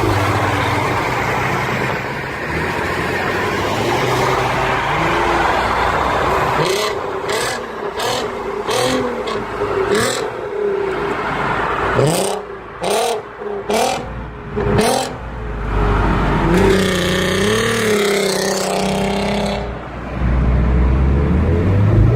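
Volkswagen Golf Mk5 R32's 3.2-litre VR6 engine running through an R20 exhaust. It starts with a steady run, then gives a quick series of short revs, each with a sharp crack. Near the end comes a longer held pull.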